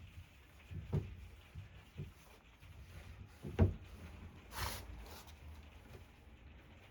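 Old wooden drawers being handled: a few light wooden knocks, a dull thump about three and a half seconds in, and a short scrape about a second later.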